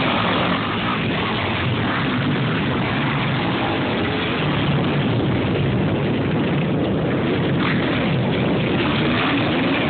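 Motocross bike engines running together in a steady loud din, with pitch rising and falling as riders rev and shift.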